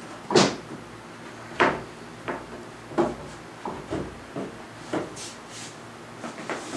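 Heavy wooden tabletop being knocked and worked down onto its glued subframe: a series of about ten irregular wooden knocks and bumps, the loudest about half a second in.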